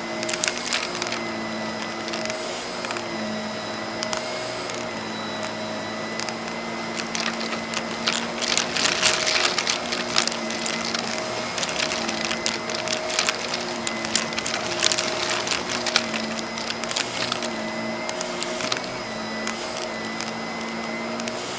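Vacuum cleaner running with a steady motor hum and whine while cut-up jigsaw puzzle pieces rattle and click as they are sucked up. The clicking gets thicker around the middle, then eases off.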